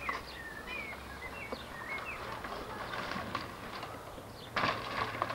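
A small bird chirping in short quick notes over steady tape hiss and a low hum, then a brief louder noise near the end.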